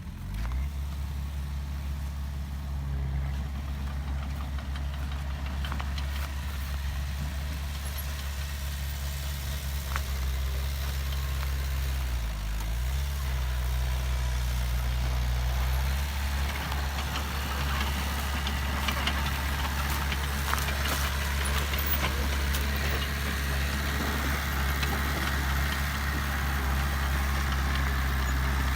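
Heavy diesel engine of an earthmoving machine running steadily, with a brief dip in its note about twelve seconds in and scattered light clicks over it.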